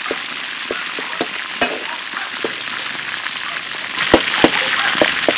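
Chicken drumsticks sizzling as they deep-fry in hot oil, with scattered crackles. About four seconds in the sizzling gets louder and a metal ladle knocks and scrapes against the wok as fried rice is stirred.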